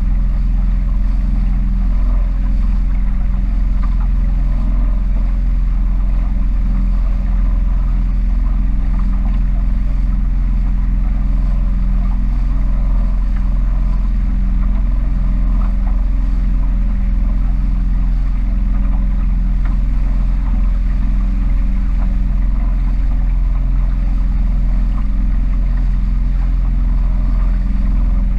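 A small powerboat's engine running steadily under way, a constant low drone with no change in speed.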